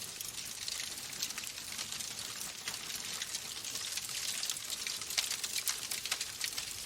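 Wood fire burning in a fireplace, crackling with frequent sharp pops and snaps over a steady hiss.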